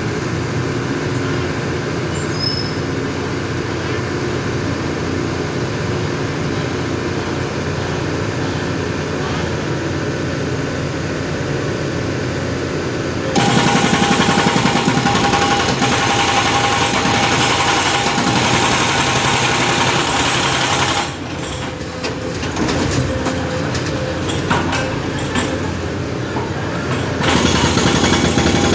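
Hydraulic breaker rig running, its engine steady at first. About halfway through, the breaker's jackhammer starts pounding concrete in a dense, rapid hammering. It eases off for a few seconds and starts hammering again near the end.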